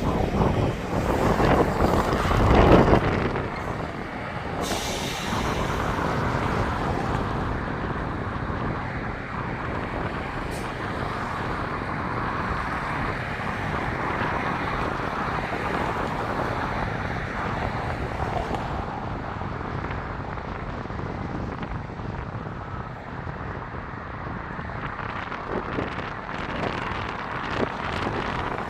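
Passenger train running at speed in high wind: a steady rumble and rush, louder for the first three seconds.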